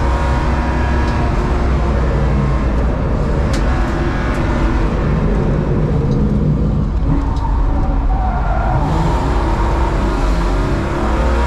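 BMW E36 325i's 2.5-litre straight-six engine heard from inside the cabin while lapping a circuit, its revs rising and falling through corners and gear changes over steady road and tyre noise.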